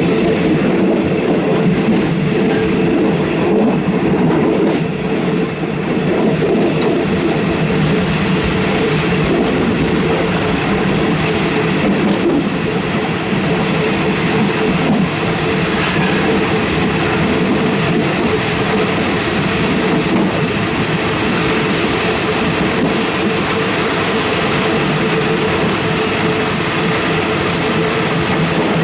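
Passenger train, a steady loud rumble.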